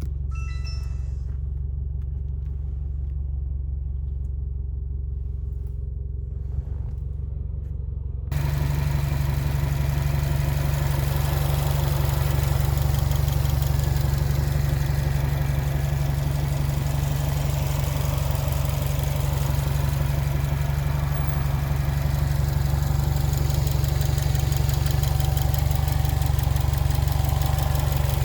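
Subaru WRX STI's turbocharged 2.0-litre flat-four idling steadily through an aftermarket muffler and sports catalytic converter. About eight seconds in it gets suddenly louder and fuller, then holds steady.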